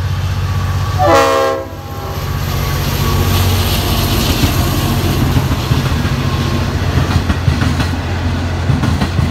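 Diesel locomotive hauling a passenger train past at speed: a steady engine drone with the wheels clattering over the rails. About a second in there is a short horn blast whose pitch drops as the locomotive passes.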